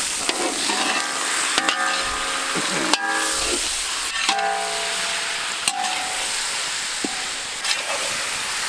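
Diced raw chicken sizzling in hot oil in a wok, with a steady hiss, while a spatula stirs it, scraping and knocking against the pan every second or so.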